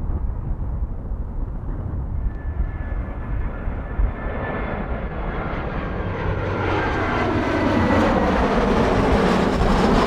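Jet airliner approaching low and passing close by: a high engine whine and rush of jet noise build steadily, loudest near the end, with sweeping shifts in tone as it goes past. Wind rumbles on the microphone underneath.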